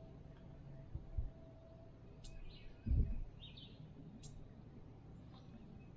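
Small birds chirping now and then over faint outdoor background, with a brief low thump about three seconds in and two softer knocks near one second in.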